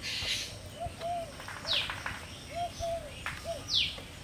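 Birds calling: a run of short, low rising-and-falling notes repeated throughout, with a high falling chirp twice. A brief scrape comes right at the start.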